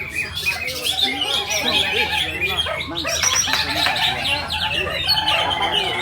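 Several green leafbirds (cucak ijo) singing at once: a dense, unbroken stream of overlapping high chirps and warbling phrases.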